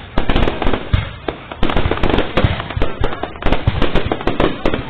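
Aerial fireworks bursting in a rapid, uneven string of loud bangs, several clusters of them a second.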